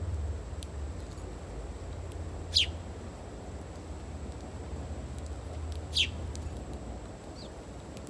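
A songbird giving two sharp, brief chip calls that sweep steeply down in pitch, about three and a half seconds apart, with a fainter call near the end, over a low steady rumble.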